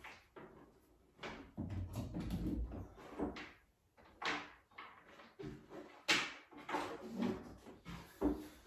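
Irregular knocks, bumps and rustling of things being handled and set down, with the sharpest knock about six seconds in.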